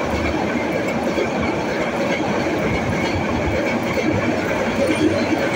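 Upaban Express passenger train's coaches passing close by at speed: a steady, loud noise of wheels running on the rails, with a faint high steady whine.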